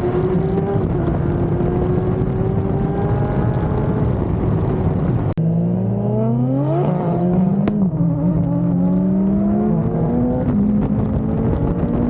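A high-performance vehicle engine accelerating under load, its pitch climbing steadily. About five seconds in, the sound breaks off sharply and picks up with a fast rev climb, dips briefly near the eight-second mark, then climbs steadily again.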